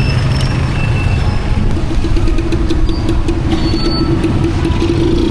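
A motor vehicle running on the road, with steady engine and road noise; a steady hum joins about two seconds in.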